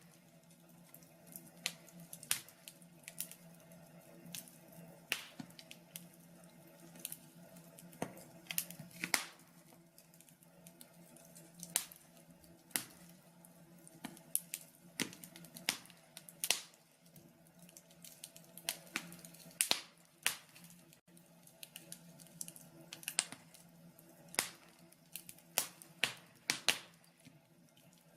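Wood fire crackling in a log burner: irregular sharp pops and snaps of burning logs, several a second with uneven gaps, over a faint steady low hum.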